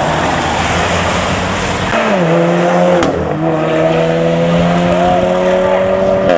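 Modified car driving off hard with a loud exhaust: a rough roar at first, then the engine note holds a steady, slowly rising pitch, dipping briefly about three seconds in as it shifts gear.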